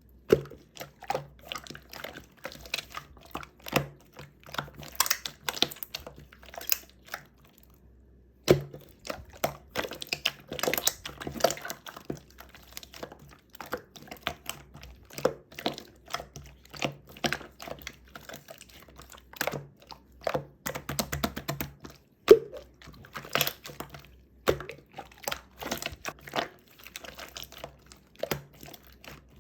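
A long run of quick, irregular clicks and taps, with a short pause about eight seconds in and one sharper knock a little past twenty seconds.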